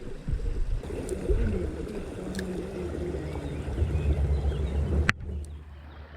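Small stream flowing, with low rumbling and knocking from handling close to the microphone. There is a sharp click about five seconds in.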